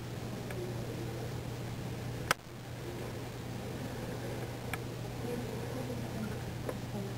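Room tone: a steady low hum, with one sharp click a little over two seconds in and a few faint ticks later.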